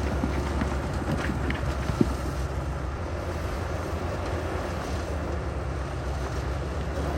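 Heavy diesel engine of earthmoving equipment running steadily with a deep rumble, with a single short knock about two seconds in.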